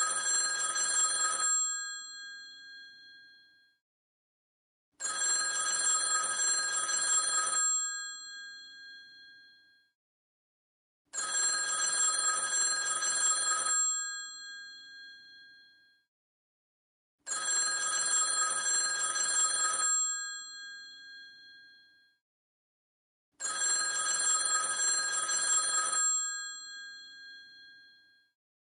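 Old telephone's mechanical bell ringing in a repeating cadence: five rings about six seconds apart, each lasting a couple of seconds and then fading out before a silent gap.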